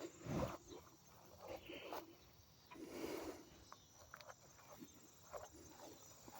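Faint scattered rustling and knocks of hive gear and a towel being handled, the loudest a thump about half a second in. A faint, even chirping of night crickets runs underneath.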